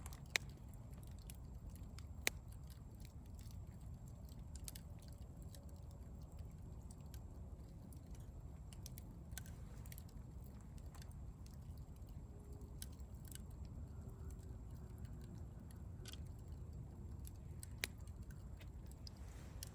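Campfire crackling: sparse sharp pops and ticks from the burning wood over a low, steady rumble, with three louder pops, two near the start and one near the end.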